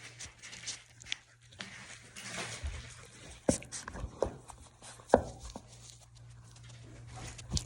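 A young puppy moving about: scattered light taps and clicks, with a few sharper knocks in the middle, over a steady low hum.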